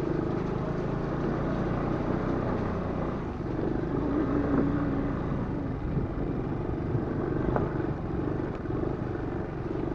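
Aprilia scooter engine running steadily under load, pulling two riders along a bumpy dirt track.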